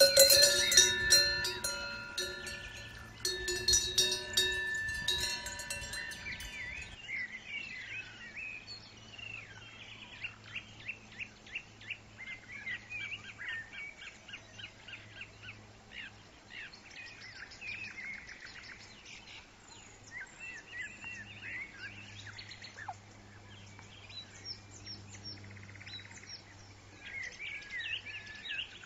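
Cowbells clanking and ringing for the first several seconds. From about seven seconds in, songbirds chirp busily over a faint low hum.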